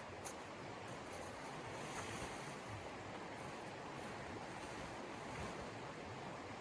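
Steady rushing wind, an even noise that holds level throughout.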